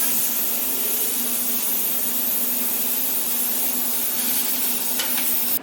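CNC fiber laser cutting sheet metal: a loud, steady hiss of the assist gas jet and cut, with a faint hum underneath, cutting off abruptly at the end.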